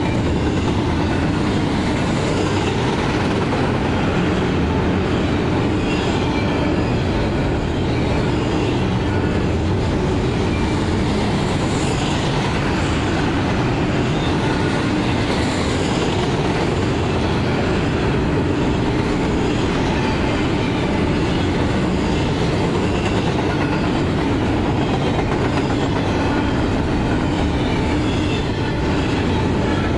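Double-stack container train's loaded well cars rolling past: a steady rumble and clatter of steel wheels on rail, with thin high wheel squeals running through it.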